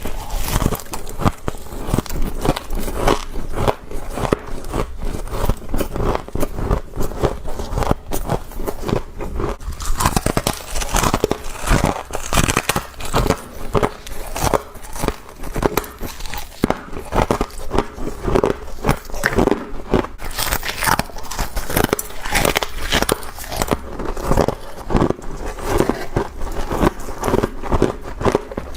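Close-miked biting and chewing of frozen frost: continuous dense crunching and crackling with no pauses.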